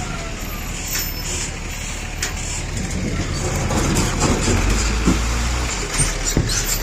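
A motor vehicle's engine running at low speed, as a vehicle drives onto the ferry, with scattered knocks and clicks.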